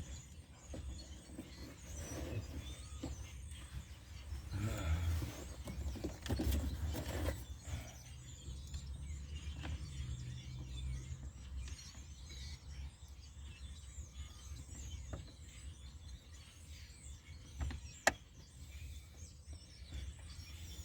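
Faint rustling, knocking and handling noise of hand work under a pickup's dashboard, with two louder spells of rustling and a sharp click near the end. Birds chirp faintly in the background.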